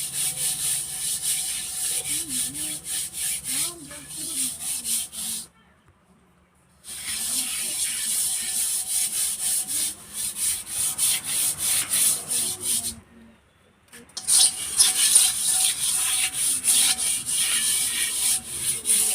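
Rhythmic rubbing or scraping strokes, about three a second, in three runs with short pauses about six and thirteen seconds in.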